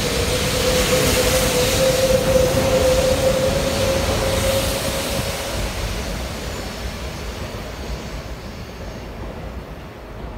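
E4 series double-decker Shinkansen pulling out of the station and gathering speed: a broad rushing noise with a whine that rises slightly in pitch over the first five seconds, then fading steadily as the train draws away.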